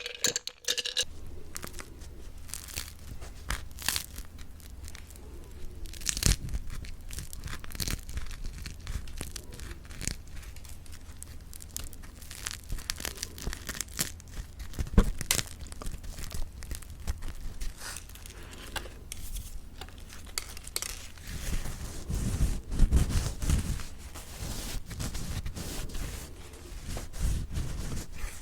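Close-miked crackling and tearing of crispy mocha bread, its crisp crust cracking as the soft chewy bread is pulled apart and chewed, in a dense run of small sharp crackles.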